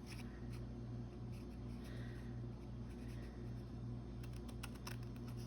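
Paper and card being handled on a craft table: soft rustling with a few small clicks and taps in the second half, over a steady low hum.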